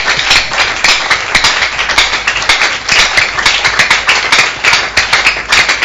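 A church congregation clapping, many sharp claps in quick succession.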